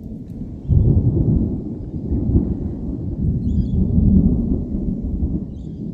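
Thunder rumbling low and long, swelling suddenly about a second in and rolling on unevenly.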